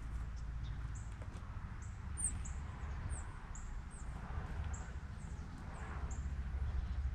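Small birds chirping at a seed bowl: a run of short, very high chirps, each dipping slightly in pitch, about two a second. A steady low rumble runs underneath.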